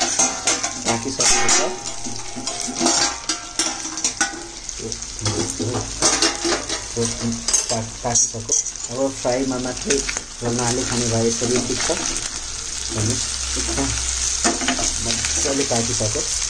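Pork pieces sizzling in a hot pan as they are stirred with a metal spatula, just after the steel lid is lifted off.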